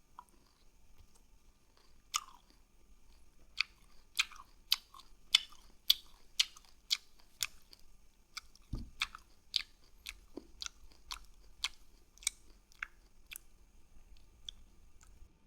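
Close chewing of lemon slices: a run of crisp, wet mouth clicks about twice a second, with one dull thump about halfway through.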